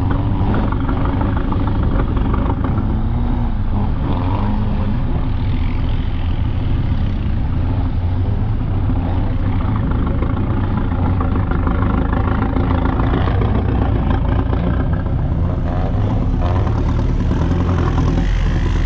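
Off-road vehicle's engine running steadily, a continuous low rumble.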